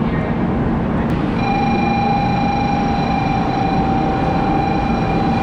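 Train running noise, a loud steady rumble. About a second and a half in, a steady high whine joins it and holds.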